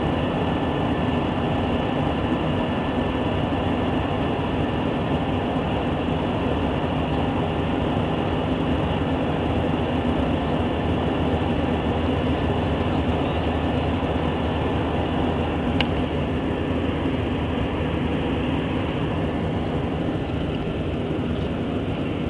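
Steady roar of jet engines and airflow heard inside an airliner cabin during the climb after takeoff, with a low drone underneath. A single small click about sixteen seconds in.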